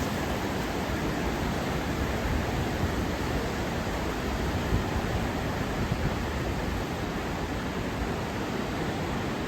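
Flooded Wien river rushing past, a steady roar of fast high water.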